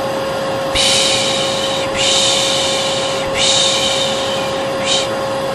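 A hair dryer running steadily with a humming motor, under a person's long, repeated shushing: three drawn-out 'shhh' sounds in a row, each over a second long, with a short one at the end. This is the hair-dryer-and-shushing white noise used to calm a colicky baby.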